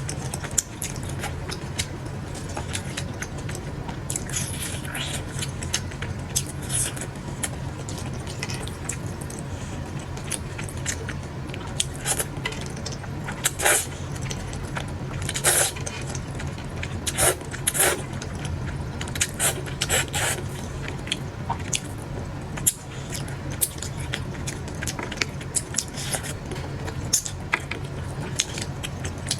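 Close-up eating noises: chewing and clinking utensils, heard as a scattering of short crisp clicks and crunches over a steady low hum.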